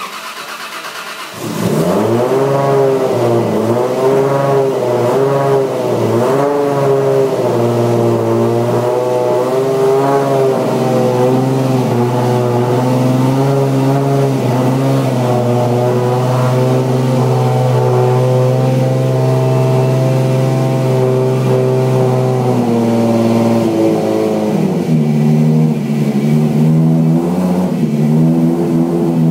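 Toyota Supra's rebuilt single-turbo straight-six, built for about 1000 bhp, being started. The starter cranks for about a second and a half, then the engine catches and its revs rise and fall several times. It settles into a steady fast idle that drops to a lower idle near the end.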